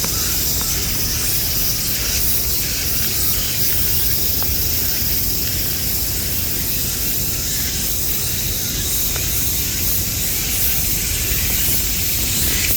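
A steady, dense high-pitched chorus of insects, with low wind rumble on the microphone.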